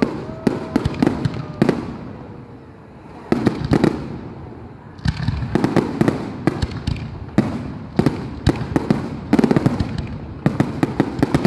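Aerial fireworks display: shell bursts going off as a rapid series of sharp bangs with a short lull about two seconds in, then a quick run of many bangs close together about nine seconds in.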